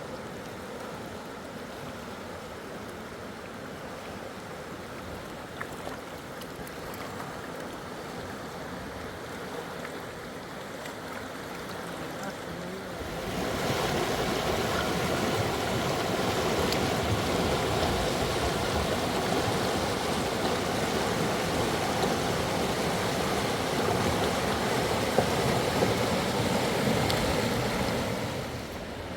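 Rushing river water, a steady noise that grows markedly louder about halfway through and falls back just before the end.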